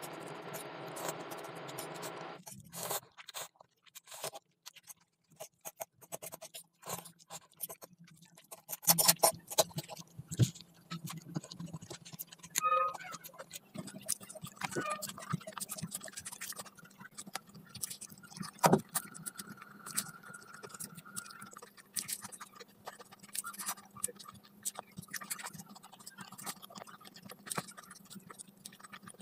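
Close-miked eating sounds: chewing with many sharp mouth clicks and scrapes, irregular and close together. A steadier rustling noise fills roughly the first two seconds.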